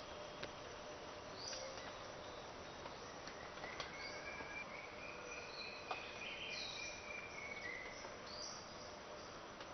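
Tropical forest ambience: a steady insect hiss with scattered short, high bird whistles and one longer held call through the middle, plus a few faint clicks.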